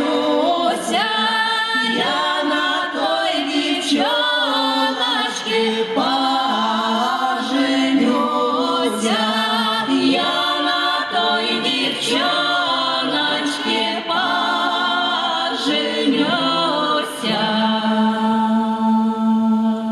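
Folk choir singing a Russian folk song a cappella, several voices in harmony on long, drawn-out lines, settling into a long held chord near the end.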